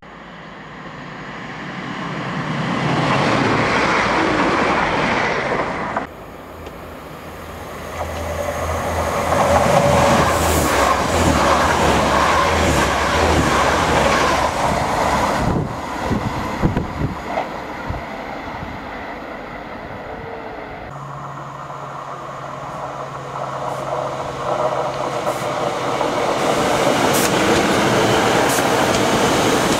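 Diesel multiple-unit passenger trains passing close by a station platform, their wheels rumbling and clattering over the rails. The sound changes suddenly about six seconds in and again past twenty seconds, when a steady low engine hum comes in under the rolling noise.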